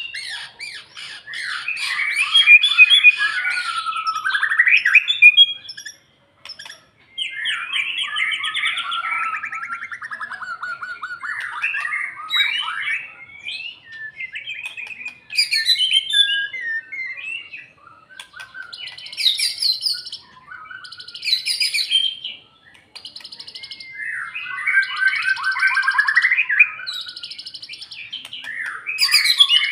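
White-rumped shama singing loud, varied song phrases of sweeping whistles and quick rattling notes, several phrases in turn with short pauses between them.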